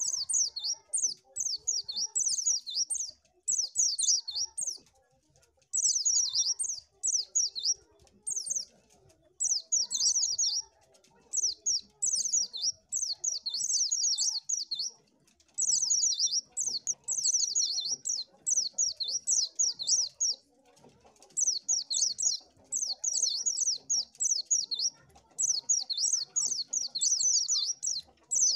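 White-eye (pleci) singing: rapid, high-pitched chirping phrases about a second long, repeated again and again with short gaps.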